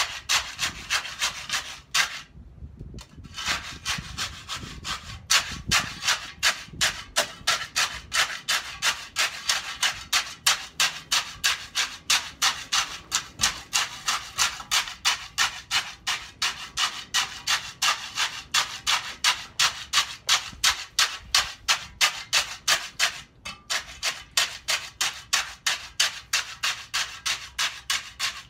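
Hand float scraping back and forth over freshly poured concrete in quick, even strokes, about three a second, to settle and smooth the surface. There are brief pauses about two seconds in and near the end.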